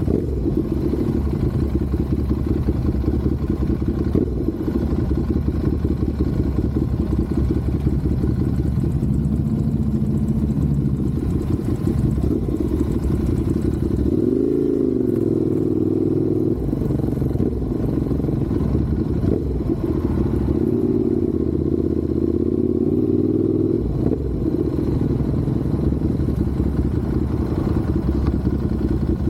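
Motorcycle engine running steadily, its pitch rising and falling briefly near the middle and again a few seconds later as the throttle changes.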